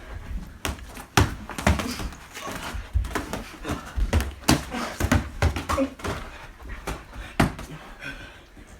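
Boxing gloves landing on bodies in an irregular run of thuds and slaps, about a dozen sharp hits, the loudest one about a second in and another near seven and a half seconds, during a boxing round in a small room.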